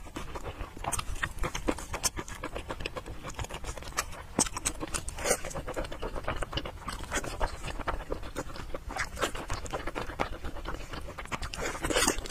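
Close-miked wet chewing and lip-smacking on soft, fatty braised pork belly: a dense run of short smacks and clicks, with heavier breathing through the nose between bites.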